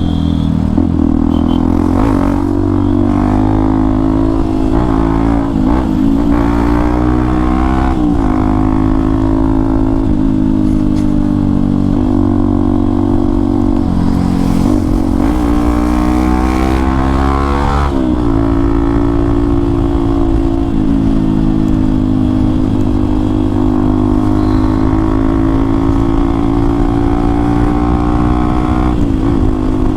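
Hero XPulse 200 4V's single-cylinder engine through an aftermarket Akrapovic exhaust, under way. The revs rise and drop several times as the rider works the throttle and shifts gears.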